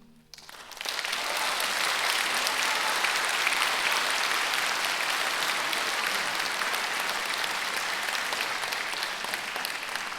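A piano's last chord dies away, and an audience breaks into applause about half a second in. The clapping is full and steady and begins to thin near the end.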